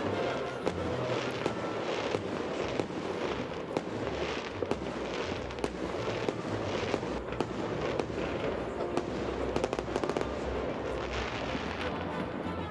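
Many fireworks going off at once, a dense run of overlapping bangs and crackles with no break.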